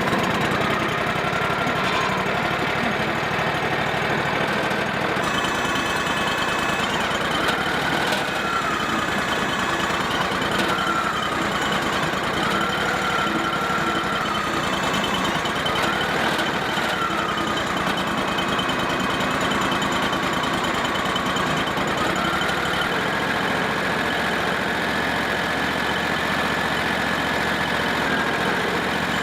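Engine running steadily, with a higher whine that rises and falls in slow waves every two or three seconds.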